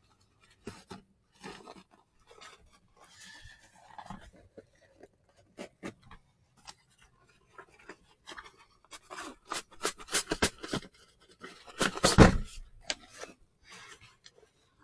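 Objects being handled at close range: scattered clicks and rustles, becoming busier about nine seconds in, with a quick run of clicks around ten seconds and the loudest rustle and bump a little after.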